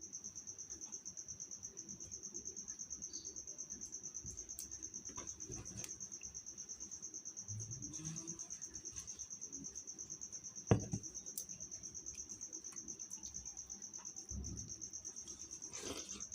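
A cricket chirping in a steady, rapidly pulsing high trill. A sharp knock comes near the middle, with a few soft dull thumps.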